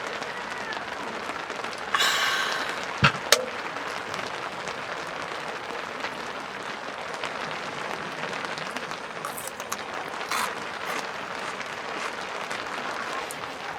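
Steady patter of rain, with a brief hissing rush about two seconds in and two sharp clicks just after three seconds.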